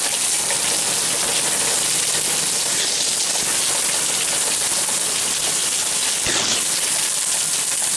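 Heavy hurricane rain pouring down in a steady, dense hiss.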